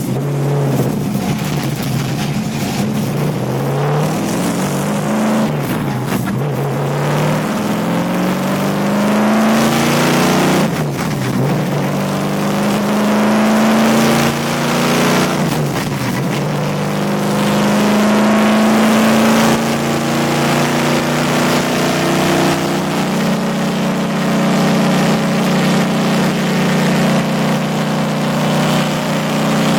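NASCAR race truck's V8 engine heard from inside the cab on a ride-along. It revs up and drops back repeatedly as it shifts through the gears, lifts off sharply twice, then holds long stretches at high revs.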